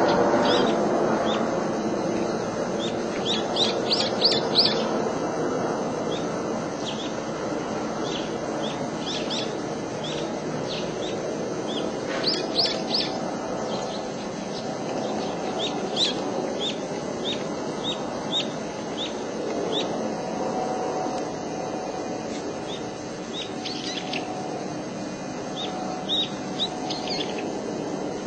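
A small songbird chirping: short high notes, now single, now in quick runs of three or four, over a steady low rushing background noise.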